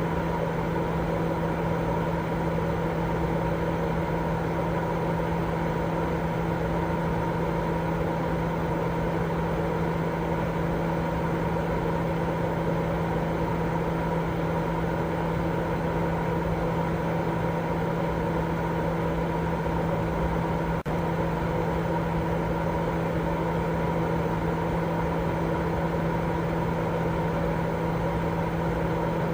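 Continuous baby-sleep white noise: a steady rushing sound with a constant low hum and fainter steady tones above it, like a running appliance, broken only by a momentary dip about 21 seconds in.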